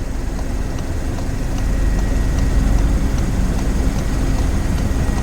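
Steady low hum of a car engine idling, with faint, light ticks repeating a little under twice a second.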